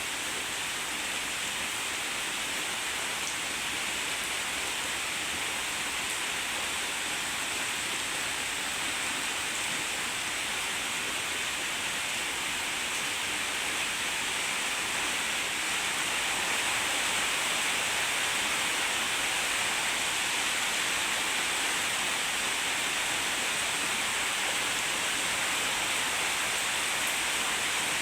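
Heavy rain falling steadily, growing a little louder about halfway through.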